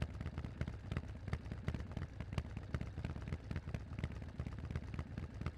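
Harley-Davidson Forty-Eight's air-cooled V-twin idling through Vance & Hines exhausts, a steady, uneven beat of deep exhaust pulses.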